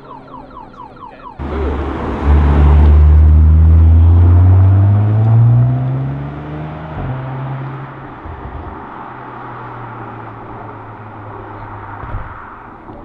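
A supercar's engine accelerating hard past, starting abruptly about a second and a half in, its pitch climbing steadily as it revs out, then dropping and fading as the car pulls away. Before that, a quieter engine note rises in quick repeated sweeps.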